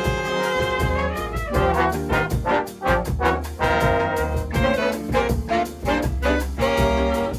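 Jazz ensemble with a brass section of trombones and trumpets playing an instrumental samba arrangement: short punched chords alternating with held notes over a steady bass line.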